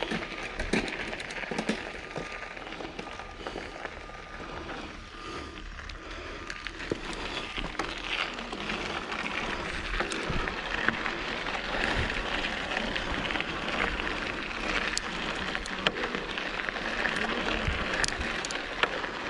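Mountain bike riding over a dirt trail: a steady crackling crunch of tyres on dirt and gravel, with many small knocks and rattles from the bike.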